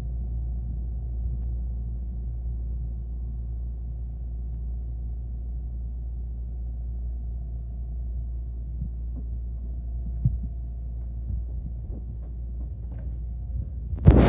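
Steady low rumble and hum of a train car interior, with a few faint clicks, cut off by a sudden loud burst of noise at the very end.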